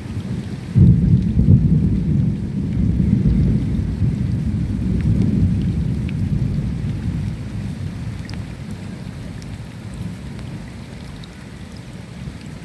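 A roll of thunder that breaks in suddenly about a second in and rumbles low, fading slowly over the next ten seconds, over steady falling rain with scattered drips.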